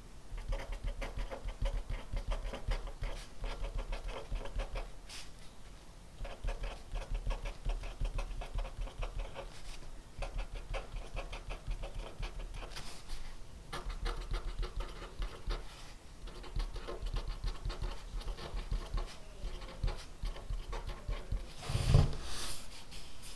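Pen writing on paper: quick, scratchy strokes in runs of a few seconds with short pauses between them. A louder thump on the desk near the end.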